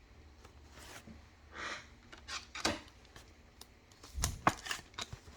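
Trading cards being handled on a table: a brief rustle, then a series of irregular clicks and taps as cards are flipped and set down.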